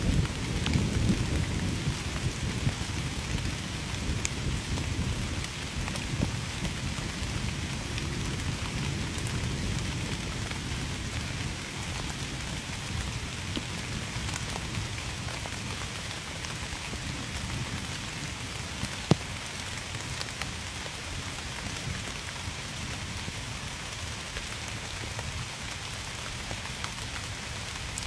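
Steady rain pattering on surfaces, with a low rumble of distant thunder that fades away over the first several seconds. A single sharp tick about two-thirds of the way through.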